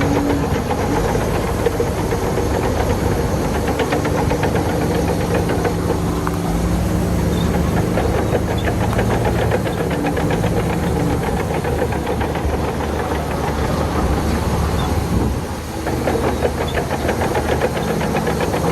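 Heavy diesel engine of earthmoving machinery running steadily, with a fast, even firing rhythm. It drops in loudness briefly about fifteen seconds in.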